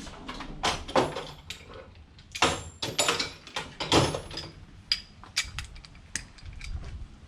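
Metal socket tools clinking and clanking: an extension bar, universal joint and socket being handled and fitted onto the oil filter housing cap. A run of sharp knocks with scraping between them, the loudest about a second in and about four seconds in.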